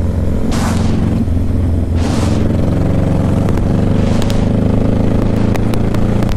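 Motorcycle engine running steadily while riding, with three brief whooshes and a few sharp clicks near the end.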